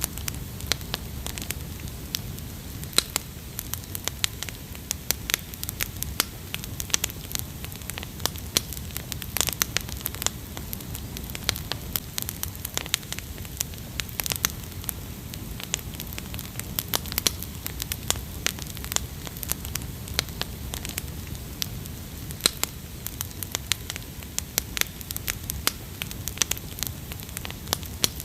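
Wood fire crackling: irregular sharp pops over a low, steady rush of flames.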